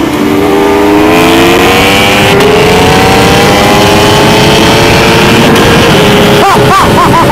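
Kawasaki ZX-10R's inline-four engine accelerating hard under load, its pitch rising steadily as speed builds. The pitch wavers briefly near the end.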